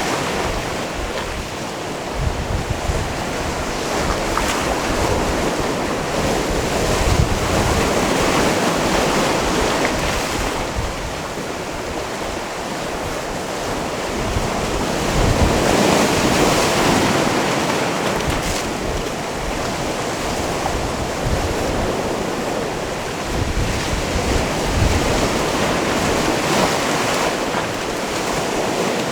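Sea waves washing in on a rocky shore, a continuous surf that swells and eases about every nine seconds, with wind buffeting the microphone.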